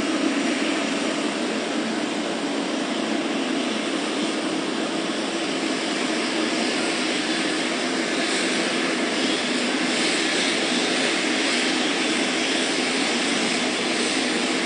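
Steady jet airliner engine noise, a dense even rumble and hiss that gets a little brighter about halfway through.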